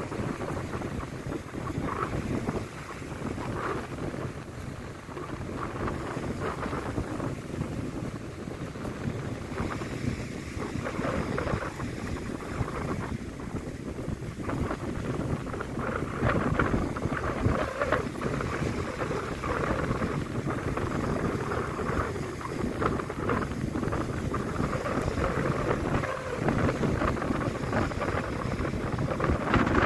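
Wind buffeting the microphone over the steady rush of the sea and a ferry's running noise, gusting a little harder in the second half.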